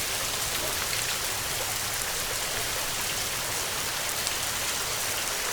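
Heavy rain falling steadily: an even hiss of dense drops with faint scattered drop ticks on top.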